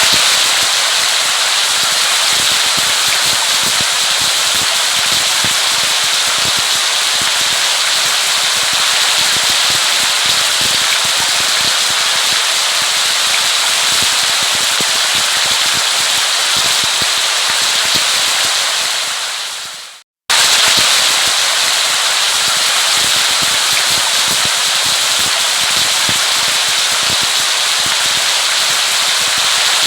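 Steady heavy rain: a dense hiss of drops crackling on a surface. About twenty seconds in it fades away, cuts to silence for a moment, then comes back abruptly at full strength, as at the join of a looped recording.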